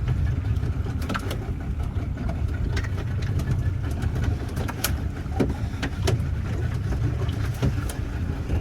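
A motor running with a steady low rumble, with light clicks scattered through it.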